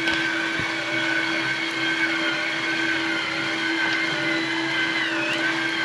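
Small electric gear motors driving the conveyor belts of a scale model dump hopper, with a steady whine made of several held tones. One upper tone dips briefly in pitch near the end.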